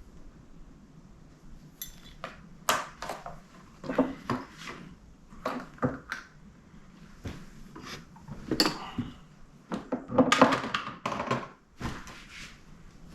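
Irregular knocks, clunks and light clatter of tools and parts being handled and set down on a workbench, with a louder cluster of clunks near the end.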